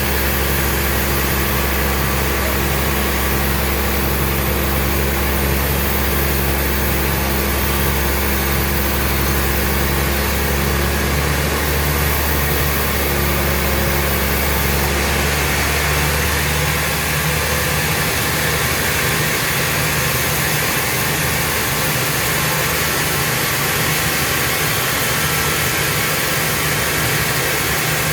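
Sawmill machinery running steadily: a loud, low engine-like hum with a pulsing beat above it, the deepest part of the hum dropping away about two-thirds of the way through.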